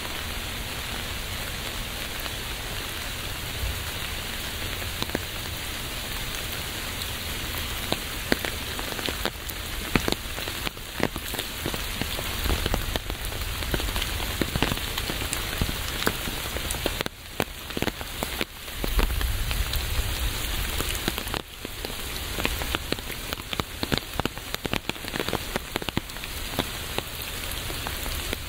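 Steady rain falling on a surface, a dense hiss with many individual drops pattering close by. The patter grows heavier and louder about halfway through, over a low rumble.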